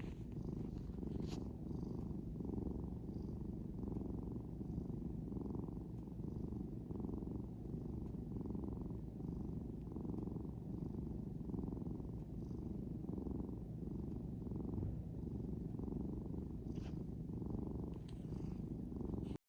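An orange tabby cat purring steadily and contentedly, close to the microphone, even though it has just been woken from sleep. The purr swells and eases in a slow, even rhythm with its breathing.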